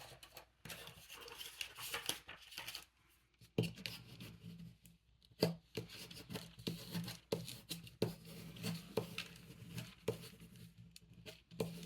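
Hands handling paper on a tabletop while straightening a crooked piece: light rubbing and rustling with scattered taps and knocks.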